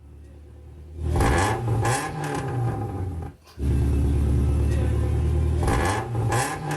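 Car engine revving and running with a loud exhaust, its exhaust pipe fallen off so the engine sounds straight out without muffler, resonator or catalytic converter. It gets loud about a second in, drops out briefly near the middle, then runs on loud and steady with the revs rising and falling.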